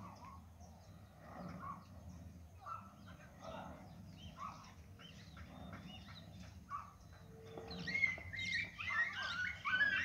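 Wild birds calling and chirping on and off, with a louder run of quick chirps and whistles starting near the end.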